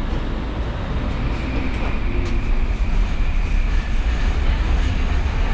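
SkyTrain car running along the track: a steady rumble, with a thin high whine coming in about a second in and holding.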